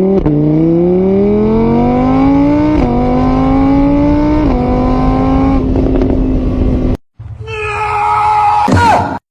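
Car engine accelerating hard: its pitch climbs, drops with each of three gear changes, then holds steady. It cuts off about seven seconds in, and a different sound with a quick falling whistle follows near the end.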